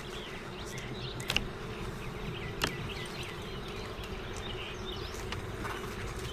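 Honeybees buzzing steadily around an open hive, with a few light clicks or knocks, one near the start and one about halfway through.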